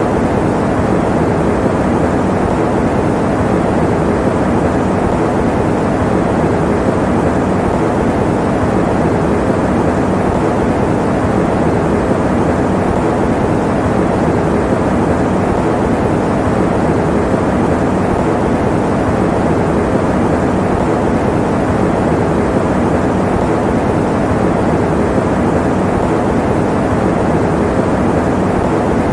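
Electric fan running steadily: a dull, even rush of moving air that never changes, used as white noise for sleep.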